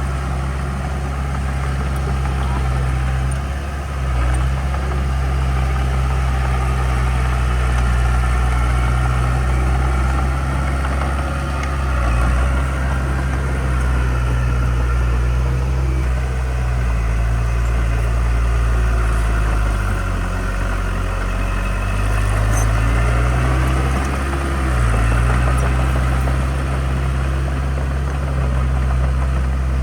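Heavy construction-machine diesel engine running steadily. Its note dips briefly a couple of times, then sinks lower for several seconds in the middle before rising again as the throttle or load changes.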